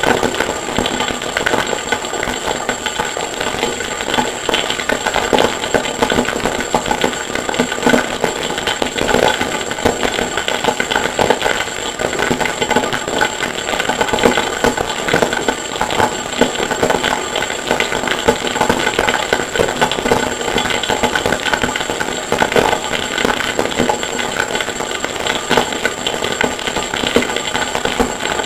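Harsh noise music: a dense, unbroken wall of distorted clatter and rattle with a steady high whine over it, made from a processed sample of metal being forged and hammered.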